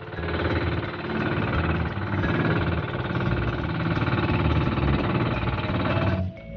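A small engine running steadily with a fast, rattling firing pulse, which cuts off abruptly just before the end.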